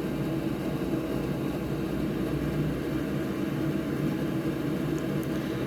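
Steady low mechanical hum of a fan or motor running, even and unchanging.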